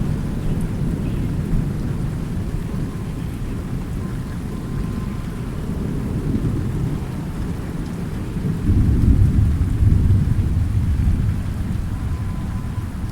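Thunderstorm: steady heavy rain with continuous low rolling thunder, the rumble swelling louder about two thirds of the way through.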